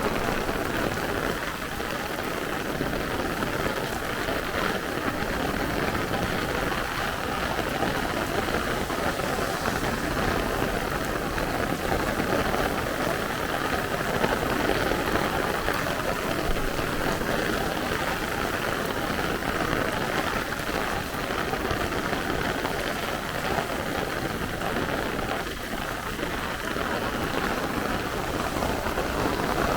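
Heavy rain pouring down steadily on the street, a continuous even hiss with no letup.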